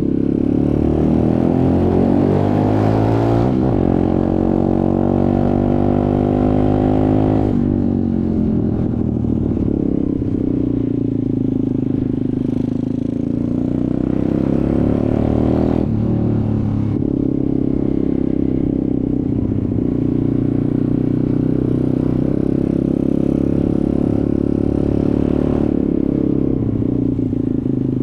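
Off-road motorcycle engine running under way, revving up with the pitch climbing and dropping sharply at two gear changes in the first several seconds. It then runs at a fairly steady speed with slow rises and falls in pitch.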